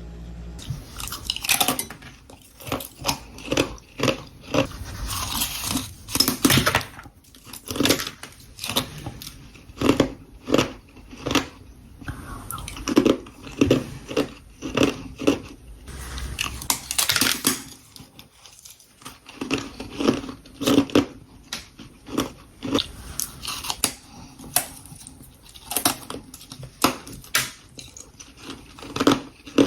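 Close-up bites and crunching of powdery freezer frost scraped from a humidifier-cooled freezer, chewed in quick irregular crunches several times a second, starting about a second in.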